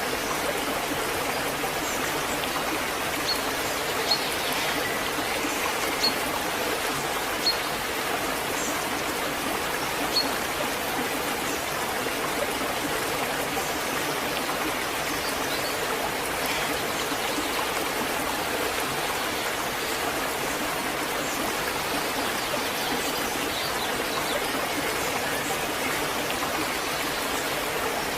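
Waterfall: water falling and rushing in a steady, even roar. A few brief high-pitched sounds stand out in the first ten seconds.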